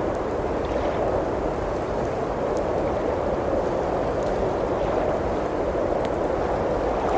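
Steady rushing noise of blizzard wind, with the faint, scattered crackle of a wood fire burning in a fireplace.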